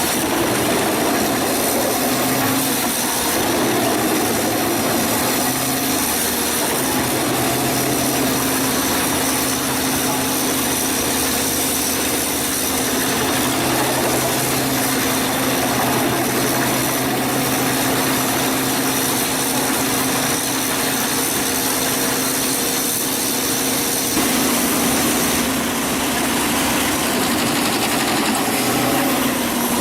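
Wood chipper running: a steady engine drone under dense, continuous mechanical noise, changing slightly about 25 seconds in.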